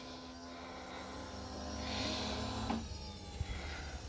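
Small model jet turbine in its automatic cool-down cycle after shutdown, the starter motor spinning the engine over with a steady whir and a faint high whine, with a small click about three-quarters of the way in.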